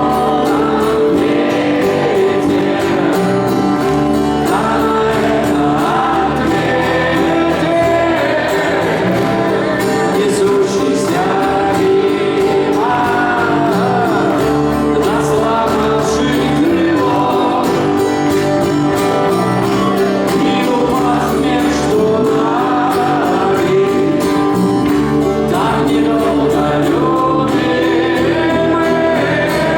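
Live rock band performance with singing, a steady unbroken stretch of a song.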